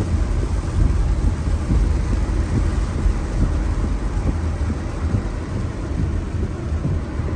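Heavy rain pouring down steadily over a continuous low rumble.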